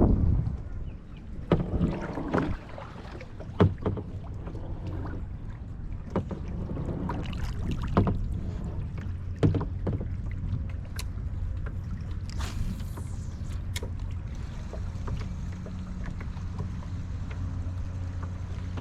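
Small plastic kayak on open water: several sharp knocks and short water sloshes against the hull over a steady low wind rumble on the microphone. A brief falling high whizz comes a little past the middle.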